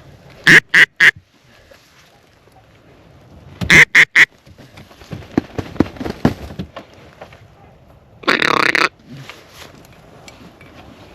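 Duck call blown by a hunter: a quick run of three loud quacks, a second run of quacks a few seconds later, and one longer drawn-out note near the end.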